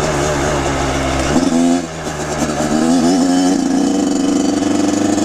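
Two-stroke engine of a Kawasaki KX100 dirt bike running under throttle. It climbs about a second in, drops off sharply, then rises again and holds a steady pitch.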